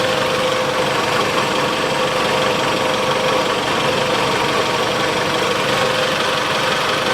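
Rebuilt 1.8-litre 4B10 four-cylinder engine of a Mitsubishi ASX idling steadily while it warms up after a full overhaul, with a steady whine running through it.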